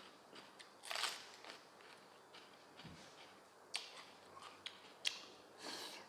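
Close-up chewing of a mouthful of raw baby bitter gourd, with a few crisp, wet crunches at irregular intervals.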